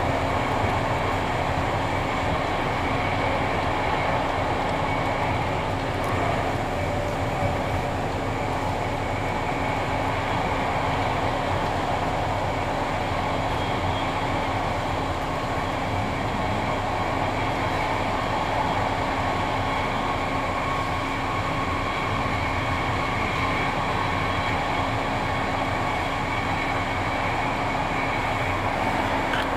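Steady running noise of a passenger train at speed, heard from inside a second-class compartment of a type 136A coach. The rolling noise is even throughout, with a faint steady hum beneath it.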